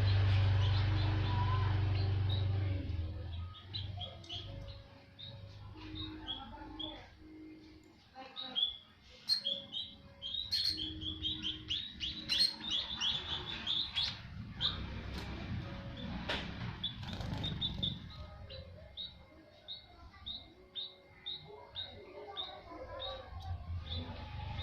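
White-headed munias chirping in short, high notes repeated rapidly, with a few sharp flutters and clicks in the middle. A low hum fades out over the first few seconds.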